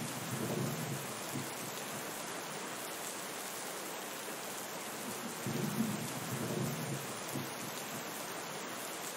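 Steady rain falling, with two low rolls of distant thunder of about two seconds each: one at the start and another about five and a half seconds in.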